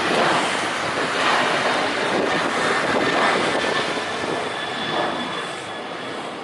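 Airliner's jet engines roaring as it passes close by, the roar fading away over the last couple of seconds, with a thin high whine showing through as it recedes.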